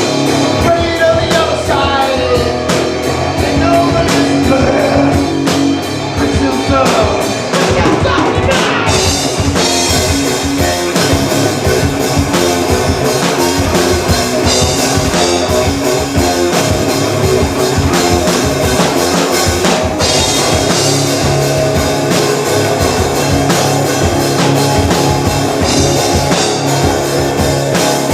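Live rock band playing loudly: drum kit, electric guitar and a singing voice, with fast, even drum strokes through the first several seconds.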